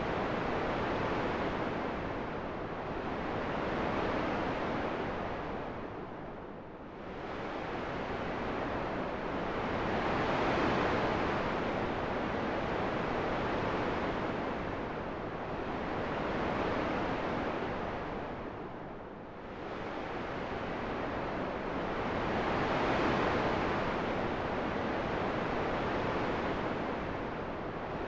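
Wind rushing as an even hiss that slowly swells and fades, dipping low twice, about a third of the way in and again about two-thirds in.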